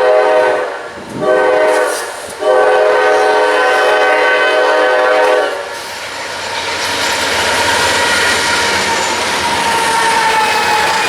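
Freight locomotive air horn sounding a chord of several tones: a blast ending just after the start, then a long blast of about three seconds. After it the train rolls by, wheels on rail growing louder, with a thin steady wheel squeal that slowly drops in pitch.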